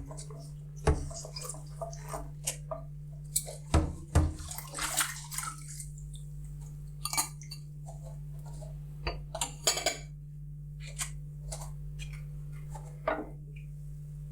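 Dishes being washed by hand in a sink: irregular clinks and knocks of dishes and cutlery, with short splashes of water, over a steady low hum.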